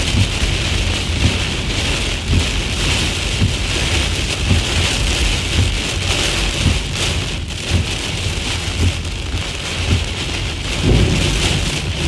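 Heavy rain pouring down in a severe thunderstorm, a dense steady patter over a low rumble, with the rumble swelling about eleven seconds in.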